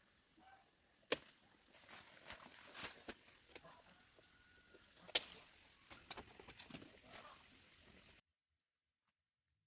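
Insects, crickets or similar, chirping in a steady high-pitched chorus, with a few sharp clicks. The sound cuts off abruptly about eight seconds in.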